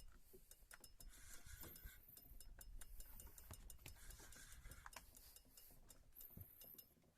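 Near silence with faint, irregular ticks and clicks.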